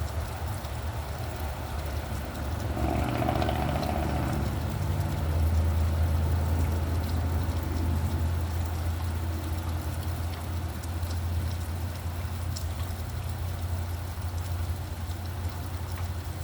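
Road traffic in the rain: a steady low rumble of engines, with a vehicle passing on the wet road about three seconds in. Faint scattered raindrop ticks sit above it.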